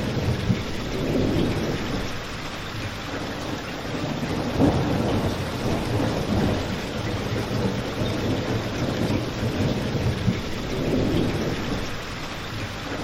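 Steady rain with a low rumbling swell, mixed with a crackling fire. A few sharp pops stand out, one about half a second in and another at about four and a half seconds.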